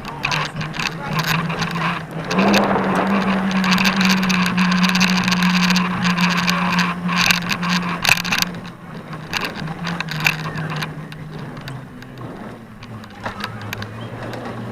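A motor engine running, its hum stepping up in pitch about two seconds in and dropping lower again later, over a crackly rattle.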